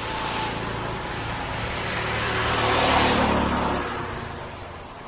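A motor vehicle passing by: its engine and tyre noise grow louder to a peak about three seconds in, then fade away.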